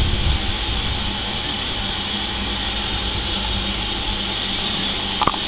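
Steady low rumble and hiss of a train standing at a platform, with one short sharp click near the end.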